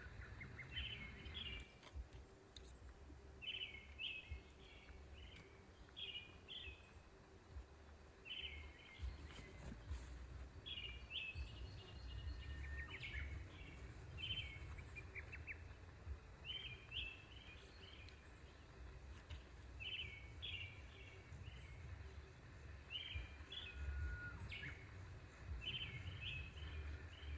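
Small songbirds chirping in short repeated phrases, one every second or two, over a low, uneven rumble.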